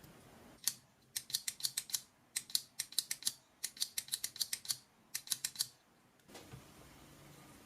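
A rapid series of sharp, light clicks, about five or six a second, in three runs with short breaks between, stopping about six seconds in.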